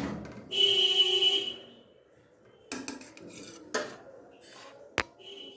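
Metal dishes and cutlery clattering: a ringing clang about half a second in that dies away over a second, then a few sharp separate clinks and a brief ring near the end.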